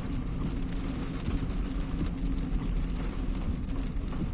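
Steady engine and road noise inside the cabin of a car driving in the rain, a low rumble under an even hiss.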